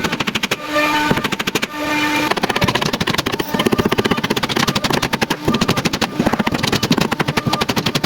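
Small engine running with a rapid, even chugging. Short steady tones sound over it in the first two seconds.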